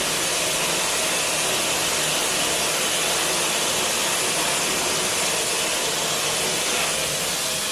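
Automated public toilet's sensor-activated hand dryer blowing a steady rush of air.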